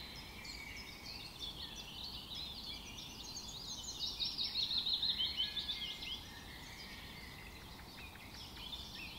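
Many small birds chirping and twittering together in a dense, overlapping chorus, loudest about halfway through.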